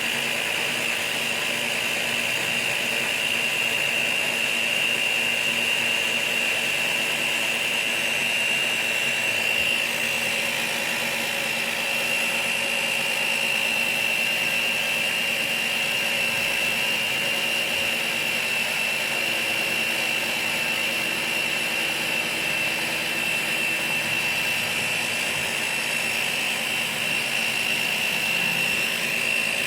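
Machine running at a constant speed with a high steady whine over a hiss, unchanging throughout.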